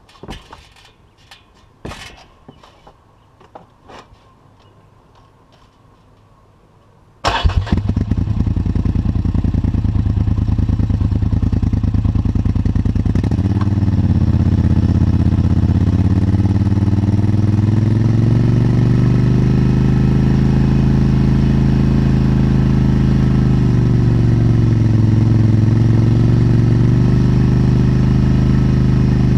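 A few light clicks and knocks, then a quarter of the way in an ATV engine starts abruptly and settles into a steady idle, with a couple of slight dips in its pitch. It is heard right beside the exhaust outlet, and is loud.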